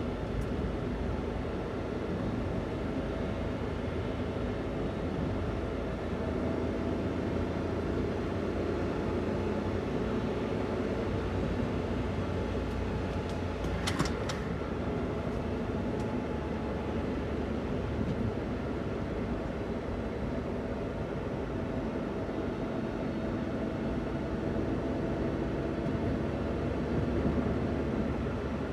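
Daihatsu Hijet kei van's three-cylinder 660 cc engine running steadily while driving on stock intake and exhaust, with road noise. There is a single short click about halfway through.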